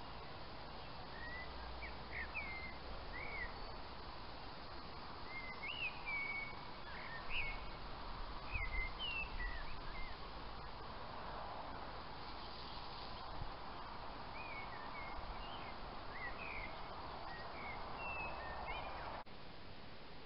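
Small birds chirping, with many short up-and-down notes repeated on and off over a steady outdoor background hiss.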